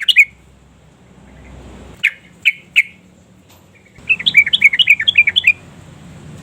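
Yellow-vented bulbul calling: the tail of a quick chattering run right at the start, three single chirps about two seconds in, then a rapid chattering phrase of a dozen or so notes from about four seconds in, lasting about a second and a half.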